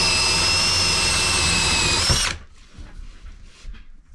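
Power drill running at a steady speed with a long bit, boring up through wooden framing for about two seconds. A steady whine rises slightly in pitch just before it stops. Faint handling sounds follow.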